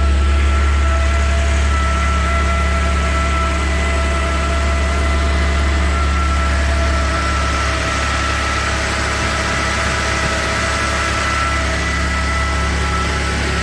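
Volvo XC90 3.2's straight-six engine idling after a cold start, with a steady high-pitched whine sitting over the low engine hum.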